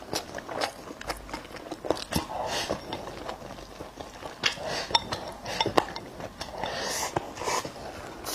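A person chewing and biting food close to the microphone: irregular wet smacks and sharp clicks, now and then a faint clink.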